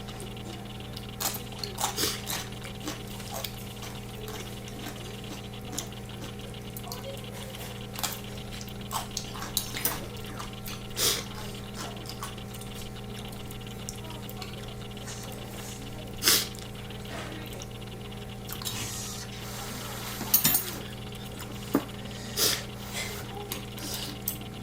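Eating sounds: utensils clink now and then against an earthenware ttukbaegi pot and bowls of ramen and rice, with a short spell of liquid noise near the end, over a steady low hum.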